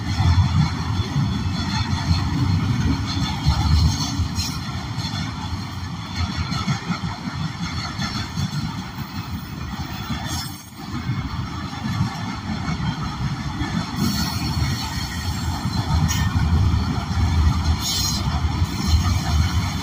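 Double-stack intermodal container train rolling past: a steady, loud rumble of steel wheels on the rails, with a few brief high clicks and a short dip in the noise about ten seconds in.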